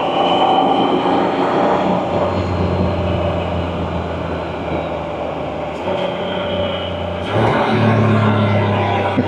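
Can-Am Spyder three-wheeler's engine running under way through bends, the note easing off in the middle and pulling harder again about seven seconds in, with wind rush over it.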